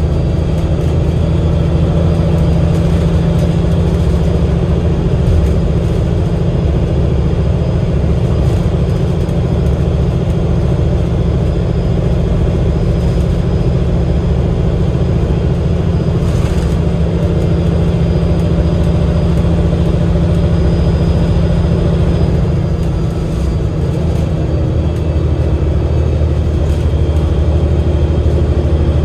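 Cummins L9E diesel engine of an Enviro500 MMC double-decker bus running with a steady low drone. Its loudness eases slightly for a moment about two-thirds of the way through.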